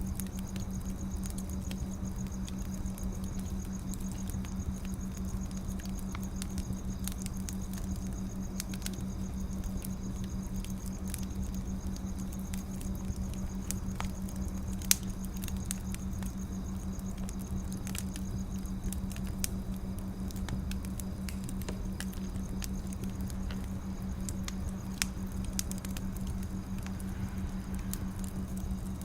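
Wood fire crackling, with irregular small pops and snaps and one louder pop about halfway through, over a steady low hum.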